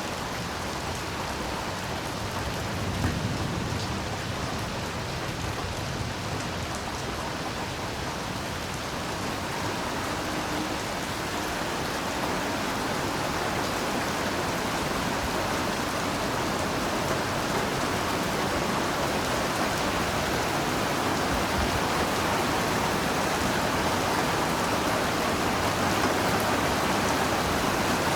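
Heavy rain falling steadily in a dense, even hiss, gradually growing louder over the second half.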